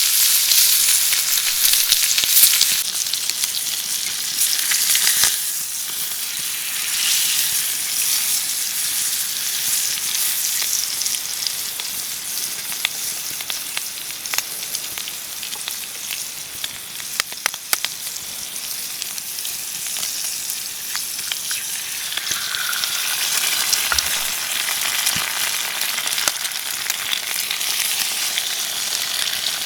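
Food frying and sizzling in a pan over a campfire, a steady hiss with scattered sharp pops.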